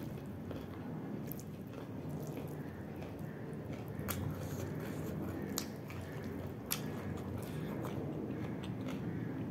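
Close-miked chewing of a mouthful of rice and vegetable curry, a steady wet mouth sound with a few sharp clicks from the mouth and lips.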